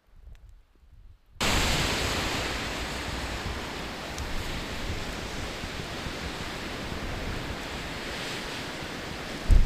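Blizzard wind blowing hard, a loud steady rushing noise that cuts in abruptly about a second and a half in, with a low thump near the end. Before it, near quiet with a few faint ticks.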